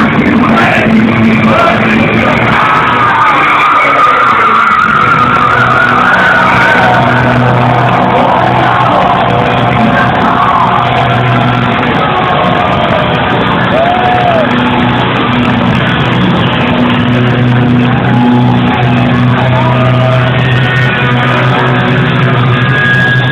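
Power metal band playing loud, with a distorted electric guitar playing held, bending lead notes over a dense, steady backing.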